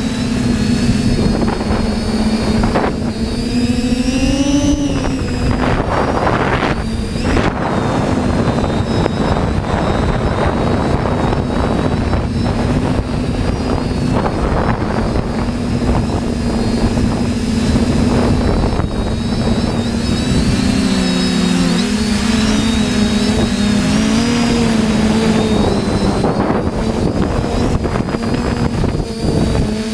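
TBS Discovery quadcopter's electric motors and propellers humming steadily in flight, the pitch shifting as the motors speed up and slow down against gusts, about four seconds in and again around twenty seconds in. Strong wind noise on the microphone throughout.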